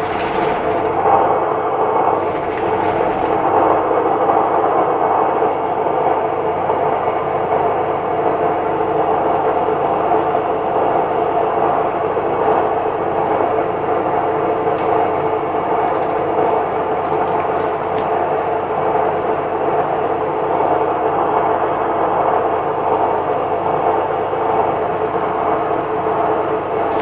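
Electrolux LSE09 washer-dryer running with a loud, steady mechanical noise and hard vibration. This is the unbearable noise it has made since a repair on it.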